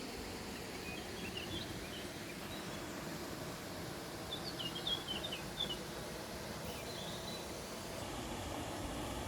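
Small birds chirping in two short flurries of quick high notes, about a second in and again around five seconds in, over a steady low rushing noise. A low rumble builds near the end.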